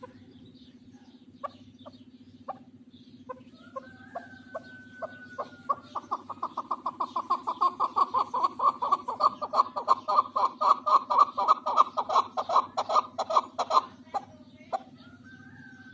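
Chukar partridge calling: a run of clucking 'chuck' notes that starts with a few spaced notes, speeds up into a fast, loud chatter of about five notes a second, then breaks off. This is the bird's accelerating rally call. A steady low hum runs underneath.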